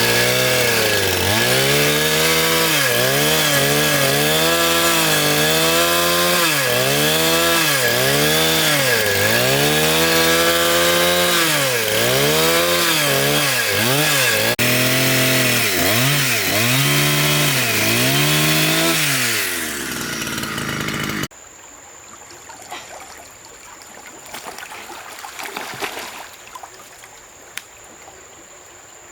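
Chainsaw cutting wood, its engine pitch dipping under load and recovering over and over as the chain bites, then winding down about two-thirds of the way through. After an abrupt cut, a much quieter stretch follows with a few faint knocks.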